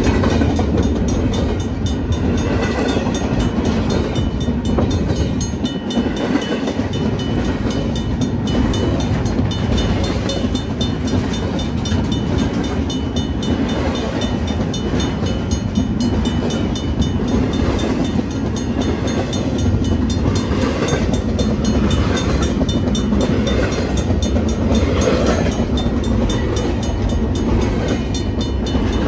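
BNSF double-stack intermodal freight train's well cars rolling past close by: a loud, steady rumble of steel wheels on rail with rapid clicking from the trucks. A crossing bell rings steadily underneath.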